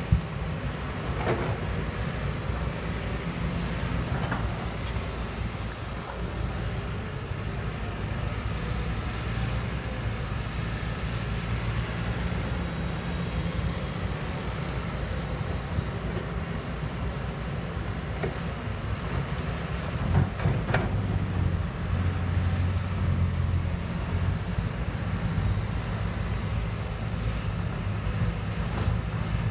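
Kobelco hydraulic excavator's diesel engine running steadily, with a few short clanks and knocks. The engine grows louder for a few seconds about two-thirds of the way through.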